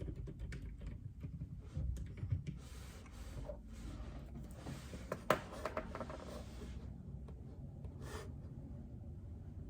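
A few light, scattered keystrokes on a JJK84 keyboard with Outemu Silent Peach linear switches, then a few seconds of rustling at the desk with one sharp tap about five seconds in, and a short rustle near the end.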